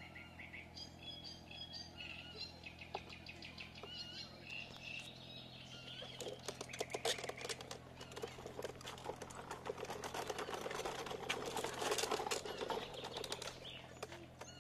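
Small birds chirping, then from about six seconds in a dense crackling rustle that becomes the loudest sound, with a faint steady low hum underneath.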